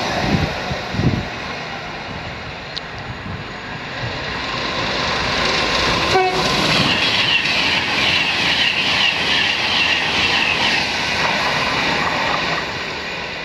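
Class 390 Pendolino electric express train approaching and running through at speed: a growing rush of wheels on rail that peaks and then eases off near the end. A brief horn note sounds about six seconds in.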